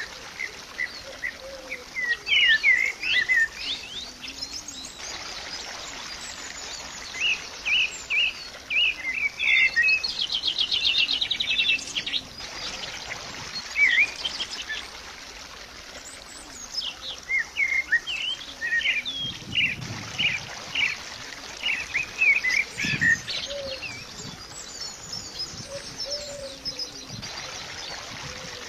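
Songbirds chirping and whistling in quick clusters of short notes, with a fast buzzy trill about ten seconds in.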